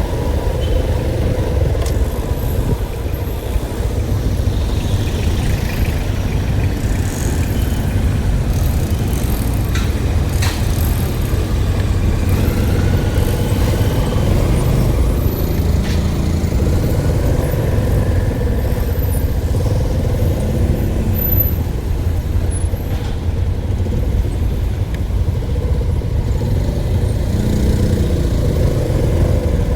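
Steady low rumble of a running motor vehicle, with faint whines that drift up and down in pitch.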